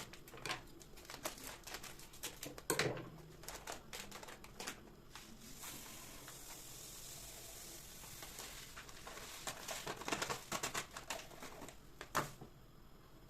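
Household handling noise: a run of small clicks and taps with two louder knocks, about three seconds in and near the end, and a steady hiss lasting a few seconds in the middle.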